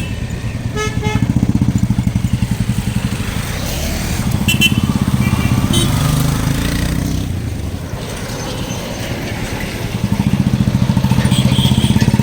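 Royal Enfield 350's single-cylinder engine running under way at speed, its thump getting louder about a second in and again near the end. A few short horn beeps about a second in.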